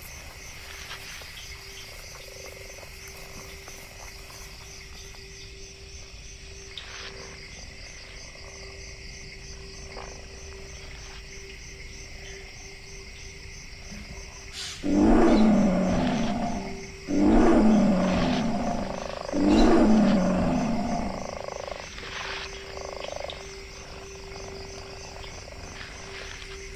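Big cat roaring: three loud, long roars a little over halfway through, then a couple of softer grunts. Beneath them is a steady chorus of insects.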